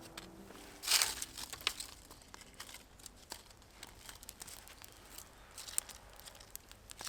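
Dry material rustling and crackling, with scattered sharp clicks and a louder rustle about a second in.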